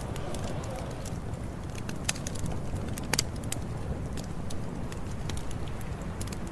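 Campfire burning, with a steady low rumble and irregular sharp crackles and pops of the burning wood.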